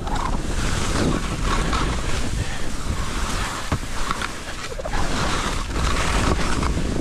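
Skis hissing and swishing over snow in surges during a downhill run, with wind buffeting the microphone in a heavy low rumble.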